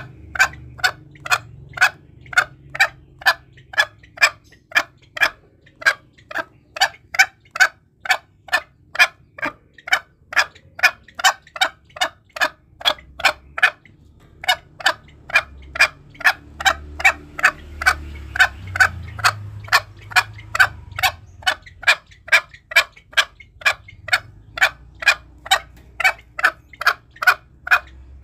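Green junglefowl calling: short, sharp clucking notes repeated evenly at about two and a half a second, with a brief break about 14 seconds in.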